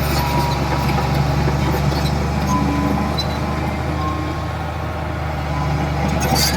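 Heavy diesel engine of earthmoving machinery running steadily with a deep hum, with a light metallic clatter near the end.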